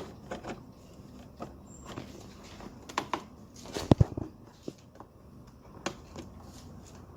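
Scattered clicks and knocks of plastic and metal engine-bay parts being handled and fitted, with a louder double knock about four seconds in.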